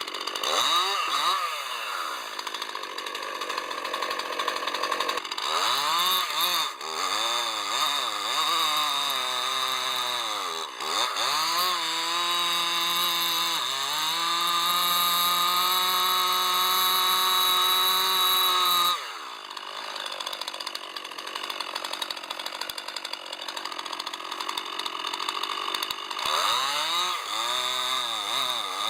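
Two-stroke chainsaw engine revving up and down, held at high revs for several seconds, dropping back to idle about two-thirds of the way through, then revving up again near the end.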